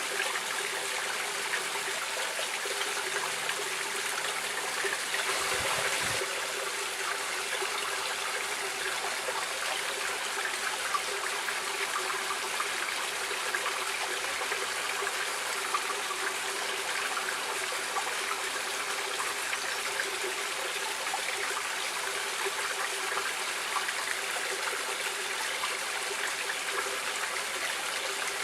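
Stream water flowing and trickling, a steady rushing sound.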